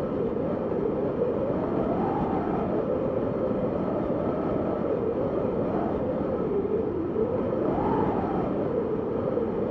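Steady wind, with a howling tone that wavers around a low pitch and swells higher twice, about two seconds in and near the end.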